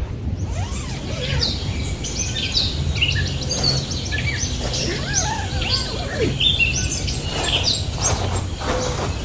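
Several small songbirds chirping and twittering in quick, overlapping calls, over a low steady background rumble.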